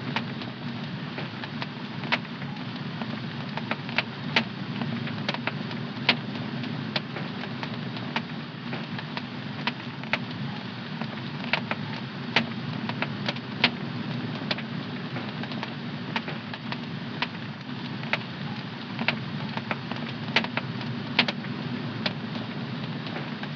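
Wood fire in a home fireplace crackling: irregular sharp pops, one or two a second, over a steady low rush of burning.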